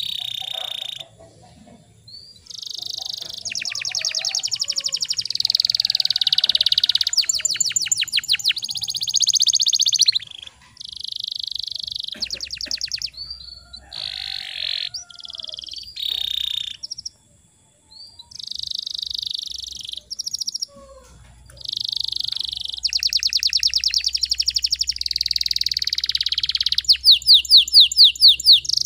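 Domestic canary singing in phrases broken by short pauses, with fast rolling trills and chattering runs; the loudest part is a rapid pulsed trill near the end.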